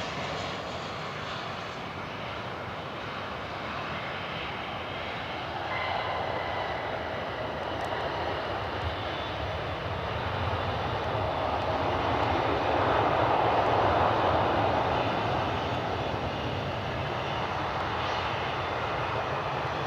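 Boeing 737-800 jet airliner arriving to land, its engine noise a steady rush that swells to its loudest about two-thirds of the way through and then eases.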